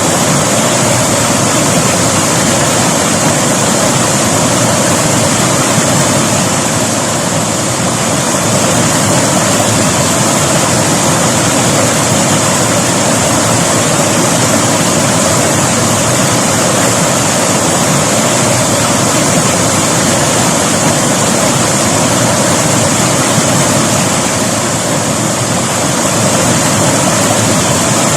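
River water rushing steadily over rocks, a constant loud rush with no breaks.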